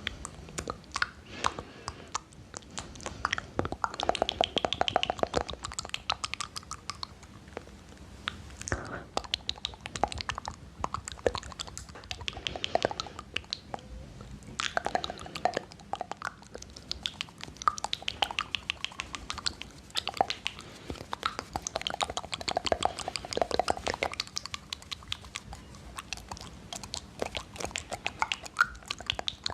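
Close-miked ASMR mouth sounds: a dense, continuous run of quick wet clicks, smacks and lip pops.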